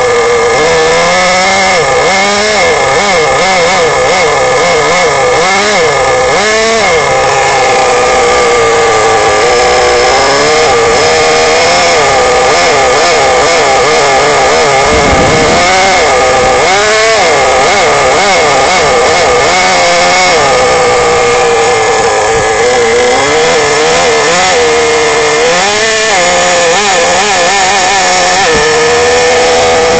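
Small engine of an engine-powered RC model running loud through a handmade stainless steel muffler. The revs rise and fall several times, then settle to a steady note near the end.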